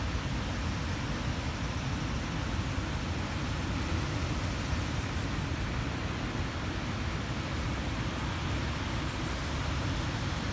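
Steady roar of heavy surf from a sea still stirred up by a typhoon, mixed with wind buffeting the microphone that makes the low end rumble and flutter.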